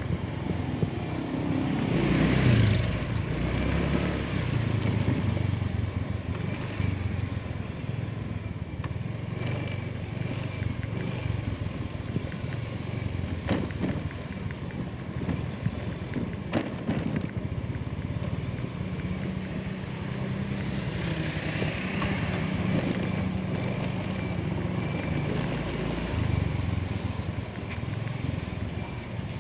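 Vehicle engine running steadily, its note shifting now and then, loudest about two seconds in.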